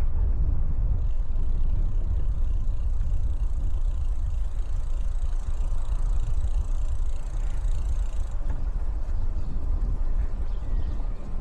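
Steady low rumble of wind on the microphone of a bicycle-mounted camera while riding, with a faint hiss of tyres and air over it.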